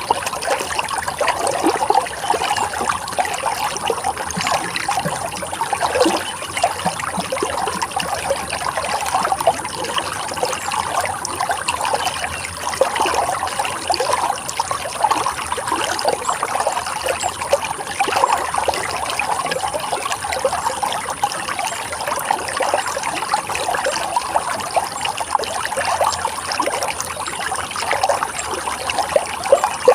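Running water flowing steadily: an unbroken rush full of small splashes and trickles.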